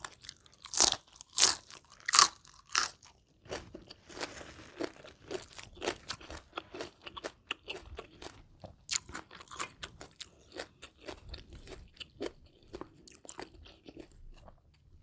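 Close-miked bites into crispy battered deep-fried chicken: four loud crunches in the first three seconds, then steady crackly chewing.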